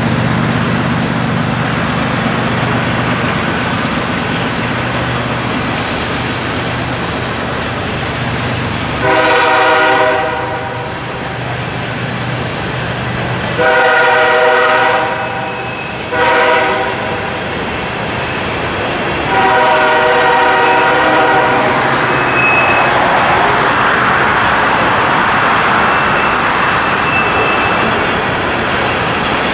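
Empty coal hopper cars rolling past with steady wheel and rail noise. Ahead of them the lead diesel locomotive's air horn sounds four blasts (long, long, short, long), the standard signal for a grade crossing.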